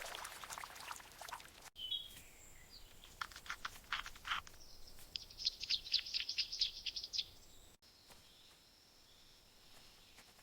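Splashy water patter briefly, then bird chirps: a short falling whistle, then a rapid run of high, evenly spaced chirps lasting about four seconds. Faint forest ambience follows near the end.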